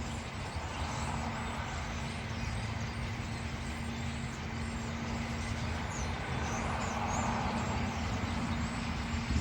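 City street traffic: a steady rumble of road vehicles with a constant low engine hum.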